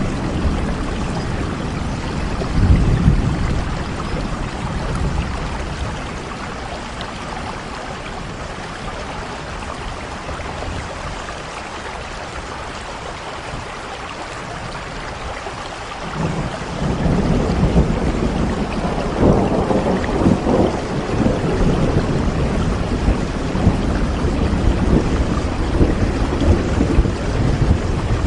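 Steady rain with thunder: a short low rumble about three seconds in, then from about halfway a long roll of thunder that rises suddenly and keeps rumbling to the end.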